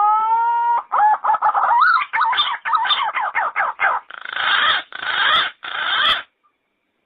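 Yellow-footed green pigeon singing: a long whistle that rises and then holds, then a quick run of warbling notes, ending in three harsher, noisier notes. The phrase stops about six seconds in.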